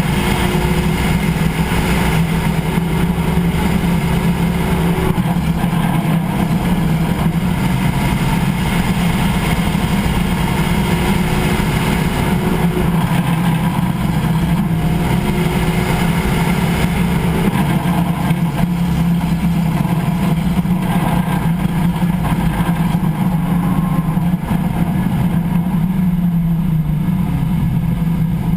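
A vehicle's driveline and road noise heard from underneath at the differential pinion while driving: a steady low hum, with a faint whine that comes in for a few seconds at a time, three times. This is the driveline noise that shows up on deceleration.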